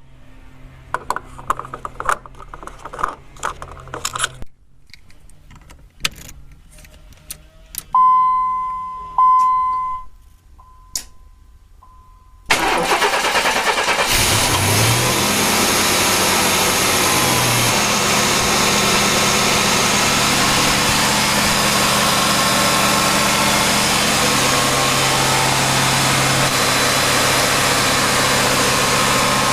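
Clicks and knocks, then two fading warning-chime tones about a second apart. About 12 seconds in, the 1991 GMC Sonoma's 4.3-litre V6 cranks and catches on its first start of the year, rises briefly in revs, then settles into a steady idle that the owner finds not as smooth as he would like.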